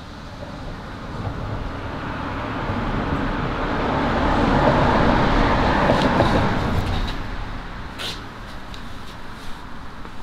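A passing road vehicle: a broad rushing noise that swells to a peak about halfway through and then fades away, with a few light clicks near the end.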